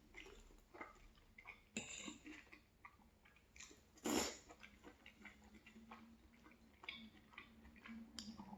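Close-miked chewing of food, with soft wet mouth clicks scattered through, and one louder sharp sound about four seconds in.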